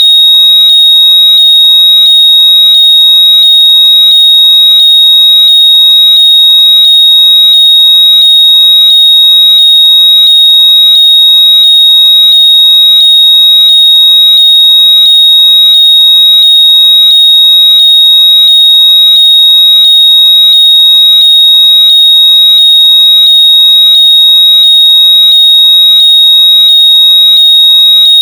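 A very loud, piercing electronic tone held at one high pitch near 4 kHz without a break. Underneath it, a faint sweeping chirp repeats about one and a half times a second. It is the high-pitched noise played through earbuds so they can be found by ear.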